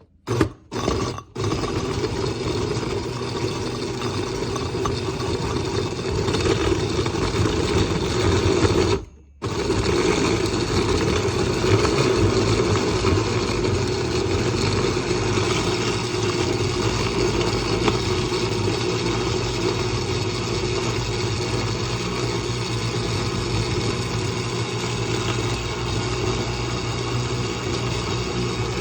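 Electric blender running, blending ice cream and Oreo cookies. It pulses briefly a couple of times, then runs steadily, cutting out for under a second about nine seconds in before starting again.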